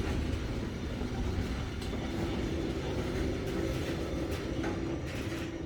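Norfolk Southern freight train's cars rolling slowly past with a steady low rumble, easing off as the train slows to a stop: the train is stalling on the grade.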